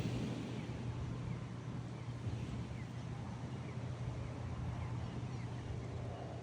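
Steady outdoor rumble of wind and surf, with faint short bird chirps now and then.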